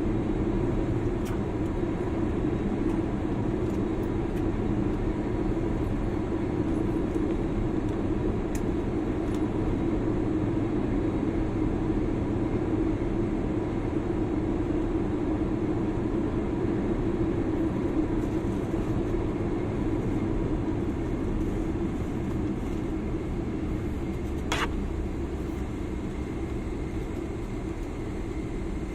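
Steady cabin hum of a jet airliner standing still on the taxiway with its engines at idle, with a brief click about three-quarters of the way through.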